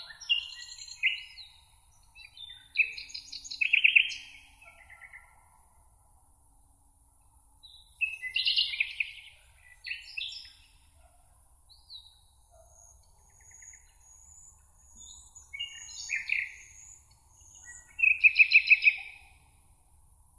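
Songbirds singing in short phrases every few seconds, several of them ending in a fast trill, with fainter high thin notes in between. A steady faint hiss lies underneath.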